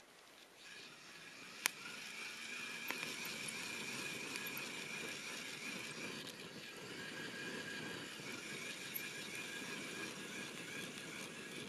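Campfire wood hissing with a wavering high whistle, with a sharp crackle about two seconds in and a fainter one a second later.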